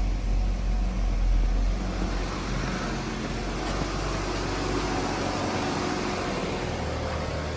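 2013 Buick LaCrosse's 2.4-litre four-cylinder engine idling steadily. It is heard first from the cabin, then from beside the open engine bay, with more hiss coming in after about two seconds.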